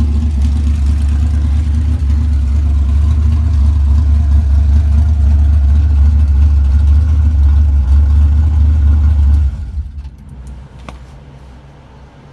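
Chrysler 440 big-block V8 with a tunnel-ram intake, running with a deep, steady rumble. About three-quarters of the way through, its sound drops away sharply to a faint remainder.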